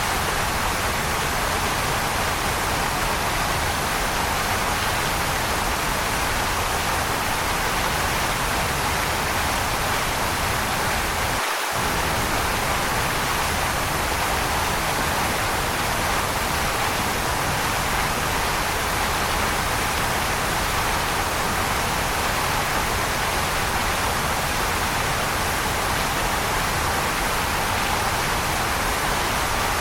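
Waterfall rushing in a steady, even hiss, with a brief gap in the low rumble about twelve seconds in.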